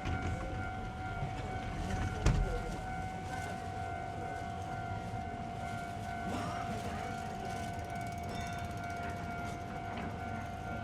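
Wind buffeting the microphone in a low rumble, under a steady high whine that keeps one pitch, with a single thump about two seconds in.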